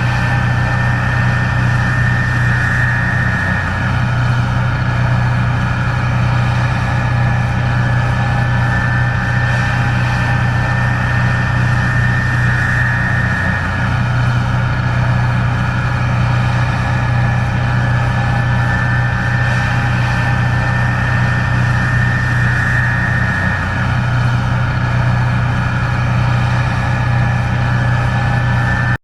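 Case IH 1660 Axial-Flow combine running steadily: a deep engine drone under a steady high whine. The drone dips briefly three times, about ten seconds apart.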